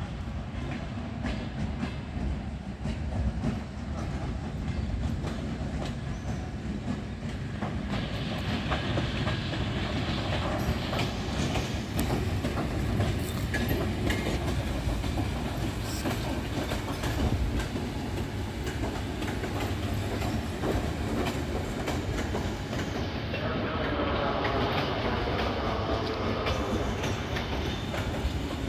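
Electric passenger train rolling past on the rails: a steady rumble with the wheels clicking over the rail joints.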